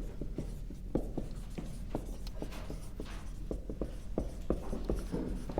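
Someone writing by hand: irregular light taps and short scratches of a pen or marker stroking a surface, several a second, over a low room hum.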